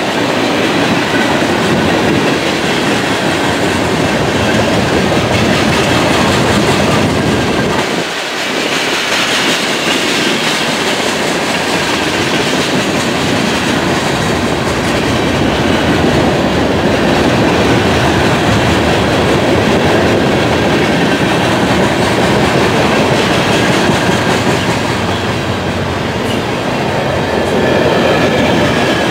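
Mixed freight train of tank cars, boxcars and refrigerator cars rolling past: a steady rumble and clatter of steel wheels on the rails.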